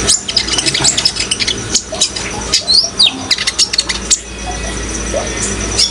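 Kolibri ninja sunbird chirping: a quick run of sharp, high twittering notes with fast rising and falling slurs for about four seconds, then falling silent, over a steady thin high-pitched tone.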